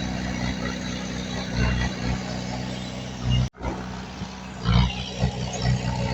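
Diesel engine of heavy earthmoving machinery running, with several short surges of louder revving. The sound cuts out abruptly for a split second about three and a half seconds in.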